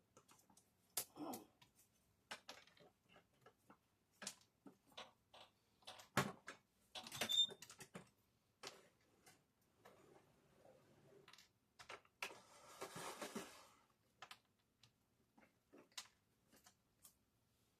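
Faint, scattered light clicks and taps of model train pieces being handled on the layout, with a short rustle about twelve seconds in.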